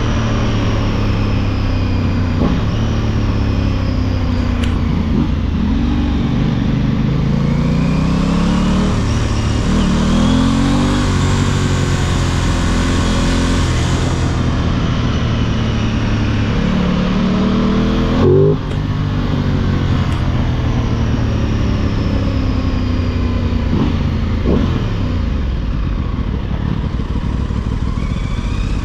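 Aprilia Tuono and RS 660 motorcycle engines idling and being revved, the pitch climbing and dropping back several times. One rev ends in a sharp pop about two-thirds of the way through.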